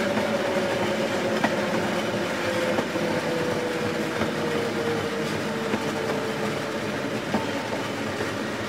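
Railway train running: a steady rumbling clatter with a whine that slowly sinks in pitch, and a few faint clicks.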